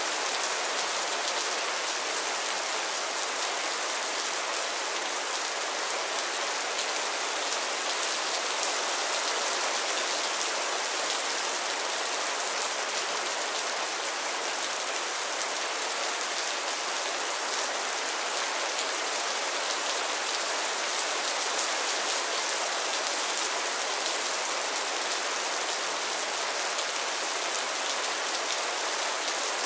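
Mild rain falling on a roof: a steady, even hiss of many small drops that holds the same level throughout.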